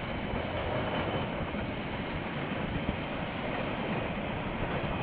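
KiwiRail freight train's container wagons rolling along the track as the tail of the train passes: a steady rail noise.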